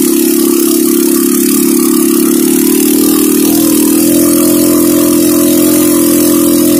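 Motorcycle engine running hard under load while climbing a steep dirt track. It holds a steady pitch, dips briefly about halfway through, then picks up and holds again.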